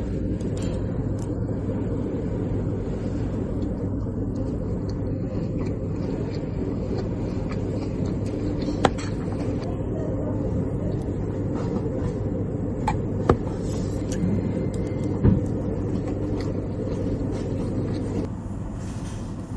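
Steady low rumble with a few sharp clicks, the kind of constant noise heard inside a moving vehicle; it drops away shortly before the end.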